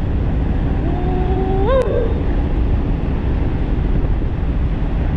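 Heavy wind rushing over the microphone of a fast-moving e-bike, a steady low roar. A brief pitched tone holds and then rises with a sharp click near two seconds in.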